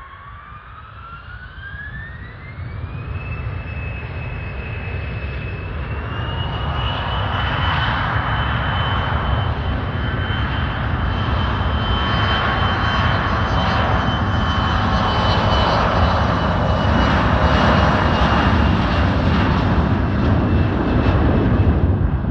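CRJ-702ER regional jet's twin CF34 turbofans spooling up to take-off power. A whine climbs steeply over the first few seconds and steps higher again about six seconds in, while the jet roar grows steadily louder.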